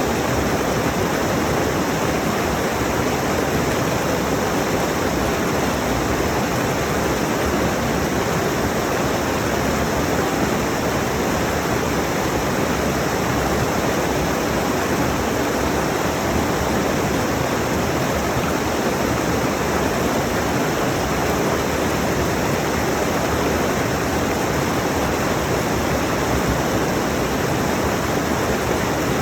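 Rushing mountain stream: a steady, even roar of fast water over rocks, unchanging throughout.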